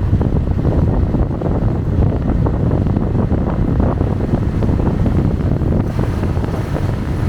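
Wind buffeting the microphone on a moving motorbike: a steady, rumbling rush of noise.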